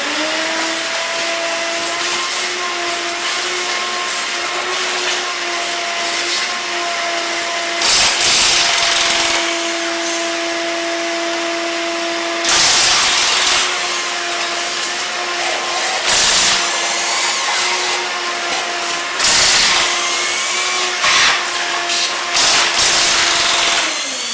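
A motor-driven shop tool spins up and runs with a steady whine for the whole stretch, then winds down at the end. Several louder bursts of harsh, hissing noise come over it along the way, about 8, 12 and 19 seconds in.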